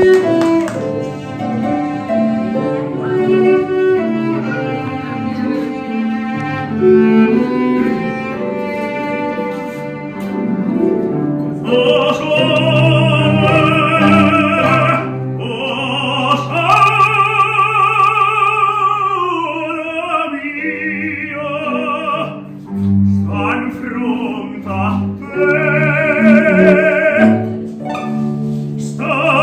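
Classical music: an instrumental passage of sustained notes, then operatic singing with strong vibrato enters about twelve seconds in and carries on in phrases over the accompaniment.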